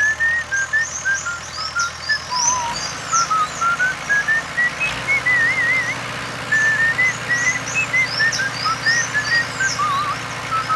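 A whistled tune with small wavering trills, over many short bird-like chirps and a low steady hum that gets stronger about halfway through.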